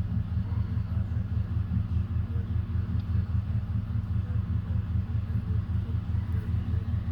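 A steady low rumble with a fast, even pulse, like an engine running.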